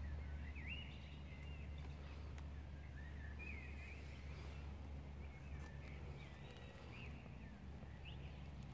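Faint birdsong: scattered short chirps and warbled phrases over a steady low hum.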